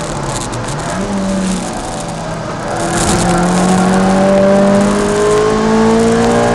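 Peugeot 306 Rallye's four-cylinder engine heard from inside the cabin under track driving. The revs dip and pick up again in the first second or so through a corner, then the engine pulls hard, its note climbing steadily and growing louder from about halfway through.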